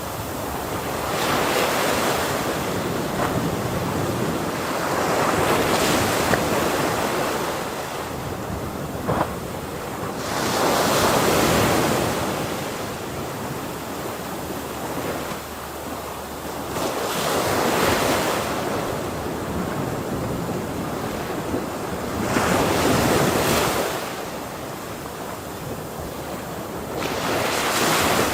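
Ocean waves breaking and washing on the shore, a louder crash surging in every four to seven seconds over a continuous hiss of surf.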